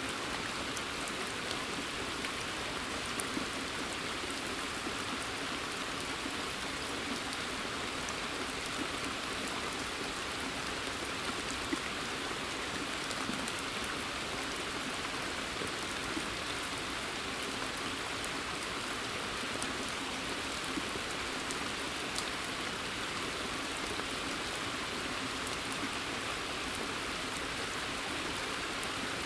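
Steady rain in a forest: a dense, even hiss of falling rain with many small individual drops ticking through it, and a few louder single drips standing out.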